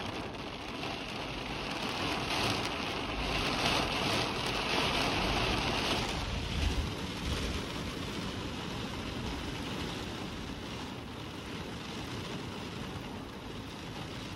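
Steady hiss of rain with wind. The brighter high part of the hiss fades about six seconds in, leaving an uneven low rumble of wind.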